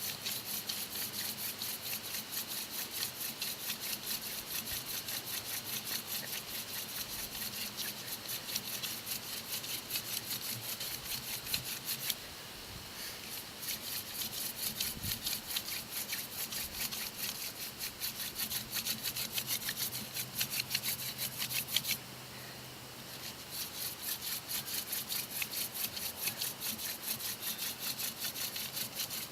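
Hand-drill friction fire: a mullein spindle twirled between the palms on an eastern white cedar hearth board, a fast, even back-and-forth rasping of wood on wood that stops briefly twice. It is the drilling that grinds hot wood dust into the notch to make an ember.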